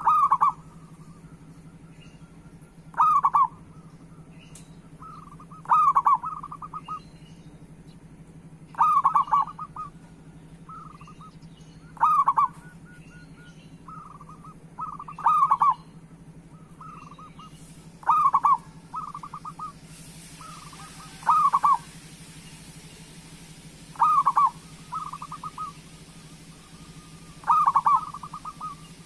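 A zebra dove (perkutut) cooing: a short burst of rolling notes, repeated about every three seconds, over a steady low hum. A hiss comes up about two-thirds of the way through.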